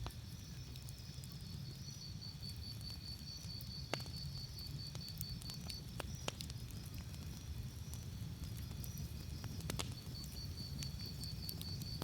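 Campfire crackling: a low steady rumble of the flames with a few sharp pops. Over it a cricket chirps in rapid pulsed trills, one from a second or so in to about halfway, and another near the end.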